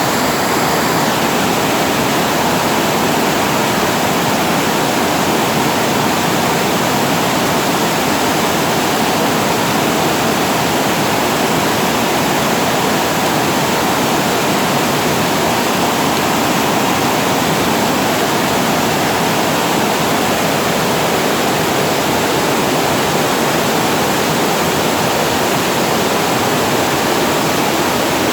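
Water spilling over a reservoir weir and falling below it: a steady, even rush of falling water.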